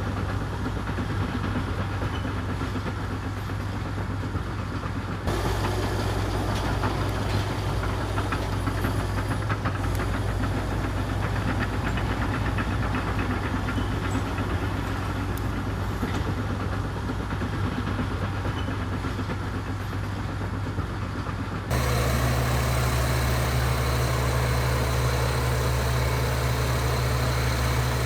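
Heavy diesel engine of a bulldozer running steadily with a low hum. The engine note changes abruptly about five seconds in and again near the end.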